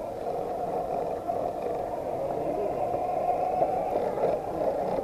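Small electric motor and gears of a micro RC trail truck whining steadily as it drives, wavering a little in pitch with the throttle.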